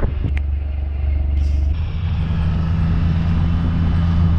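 Utility vehicle engine running steadily while being driven along a farm track, a low drone, with a short click or two just under half a second in.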